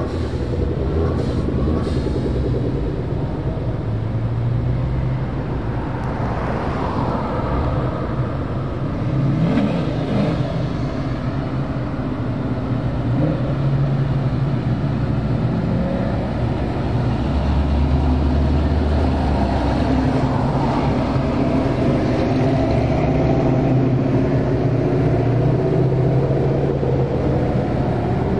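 A stream of Ford Mustangs driving past one after another. The engines keep up a steady low rumble, with pitch rising and falling as cars pass and rev, most clearly about a quarter of the way in and again past the middle.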